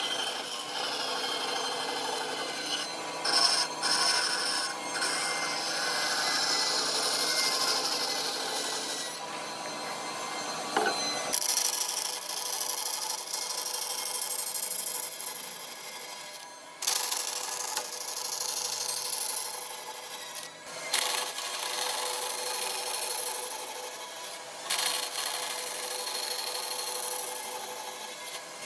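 Wood being scraped or sanded against a spinning workpiece on a wood lathe: a steady, loud rasping hiss. It breaks off and changes abruptly several times.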